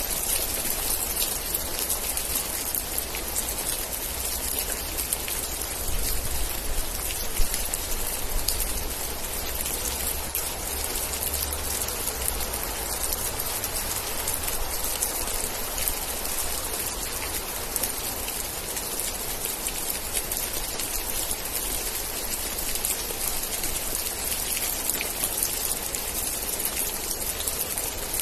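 Steady rain with a dense patter of individual drops over a continuous hiss, and a low rumble underneath.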